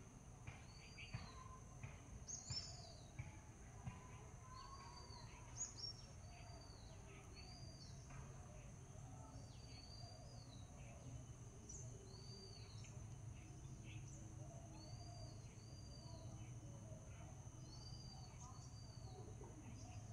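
Faint bird chirps: short arched calls repeating about once a second, over a low hum and a steady high whine.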